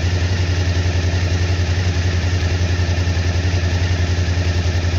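Kawasaki KLV1000's V-twin engine idling steadily after a throttle blip. The idle holds even, the sign that the newly fitted fuel pump has cured the hunting and stalling.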